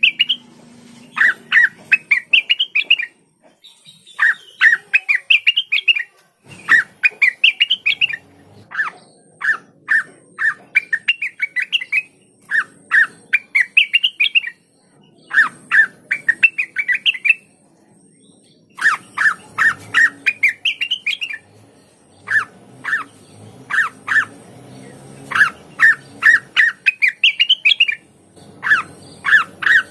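Cucak wilis (leafbird) singing in its loud 'gacor' style: rapid runs of sharp, chattering notes that climb in pitch. The runs repeat every two or three seconds, with a couple of brief pauses.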